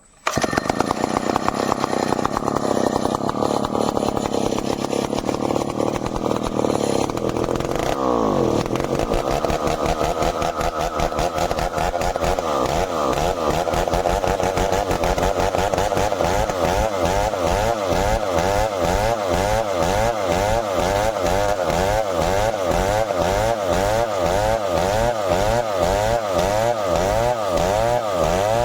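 Stihl 070 single-cylinder two-stroke chainsaw running hard with steady loud engine noise, as when cutting through merbau hardwood. From about eight seconds in, its pitch rises and falls in a steady rhythm, roughly twice a second.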